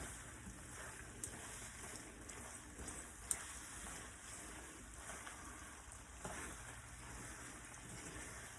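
Food sizzling in a hot pan, a faint steady crackling hiss, with a sharp click about three seconds in.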